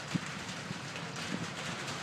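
Steady rain falling, with scattered drops tapping close by; the sharpest tap comes just after the start.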